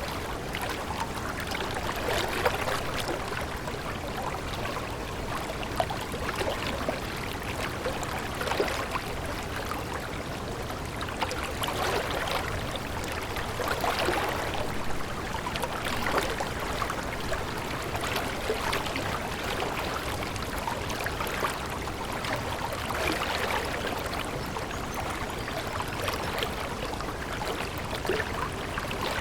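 Water running and trickling steadily, like a small stream babbling over stones, with small irregular splashes throughout.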